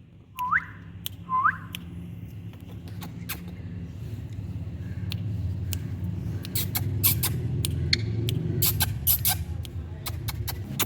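Indian ringneck parrot giving two short rising whistles about a second apart near the start, then a scatter of sharp clicks over a steady low rumble that swells about halfway through.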